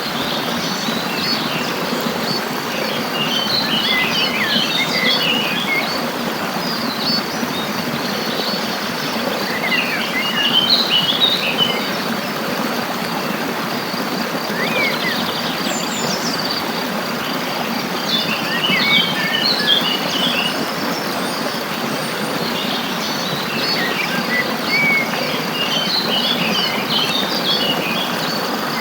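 Small birds singing in clusters of quick chirps every several seconds, over a steady rushing background noise and a faint, steady high insect trill.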